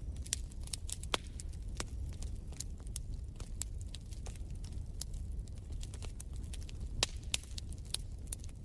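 Wood fire crackling in a fireplace: irregular sharp pops and snaps over a steady low rumble of the burning logs, with two louder snaps, one about a second in and one near the end.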